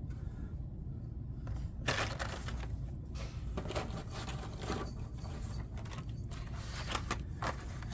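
Hot Wheels cars on cardboard blister cards being handled and shuffled, with irregular crinkling and clicking of the card and plastic starting about two seconds in.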